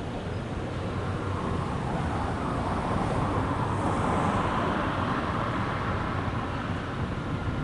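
A vehicle passing close by: a steady low rumble with a rushing sound that swells about three to five seconds in and then eases off.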